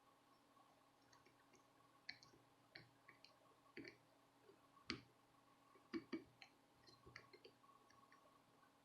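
Faint, irregular small clicks and taps of hand tools working on a circuit board during soldering, over a faint steady hum.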